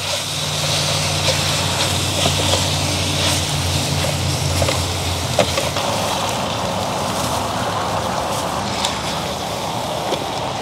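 Chicken pieces frying in oil in a pan on a portable butane stove: a steady sizzle with a few scattered pops, and a low steady hum underneath in the first half.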